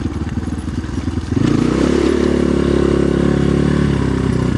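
Orion RXB250XL dirt bike engine running at low revs, then the throttle opens about a second and a half in and the engine pulls at higher, steady revs.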